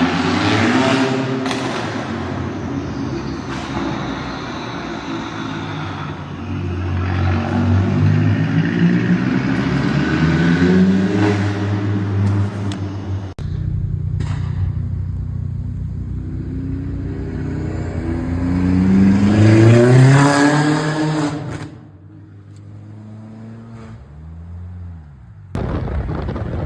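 Stage 2 tuned 2001 VW GTI's 1.8-litre turbocharged four-cylinder revving repeatedly, the engine note climbing and falling, with a high turbo whistle rising over a rev about three-quarters of the way through. The sound cuts abruptly about halfway, picks up again at a steady idle, and ends in wind noise.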